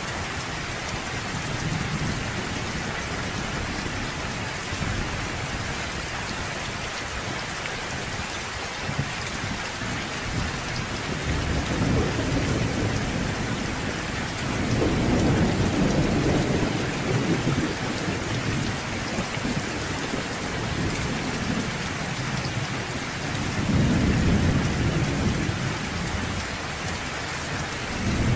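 Steady rain in a thunderstorm, with low thunder rumbling over it several times. The rumbles are strongest about halfway through and again near the end.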